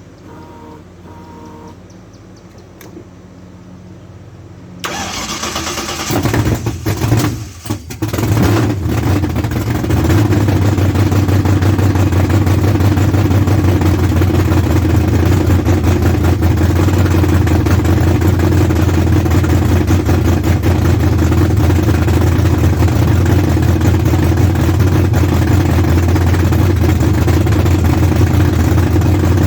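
A freshly rebuilt engine started for the first time: it is cranked about five seconds in, fires and stumbles for a couple of seconds, then catches and runs steadily and loudly.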